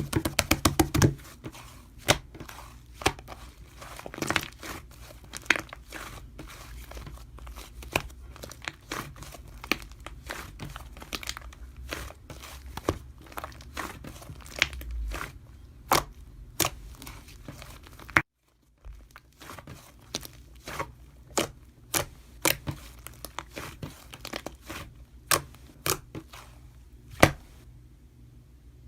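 Close-up handling noise: crinkling and tearing of paper or plastic, with many irregular sharp clicks and taps, and a brief dropout about 18 seconds in.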